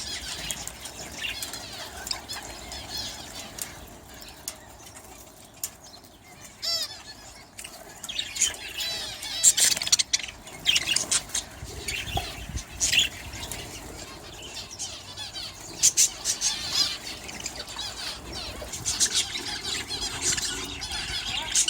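A flock of budgerigars chirping and chattering, with wings fluttering. The calls are sparse at first and get busier and louder from about a third of the way in.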